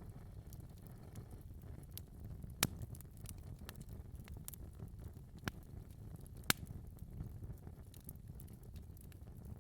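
Fire crackling in a fireplace: a steady low rumble of flames with scattered small ticks and three sharper pops, the loudest about two and a half seconds in and again near six and a half seconds.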